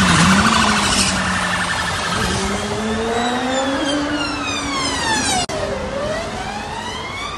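Emergency-vehicle siren wailing, its pitch sliding slowly down and then back up, over a steady rushing noise.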